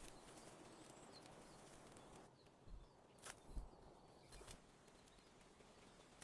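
Near silence: faint outdoor background with a few soft knocks about halfway through.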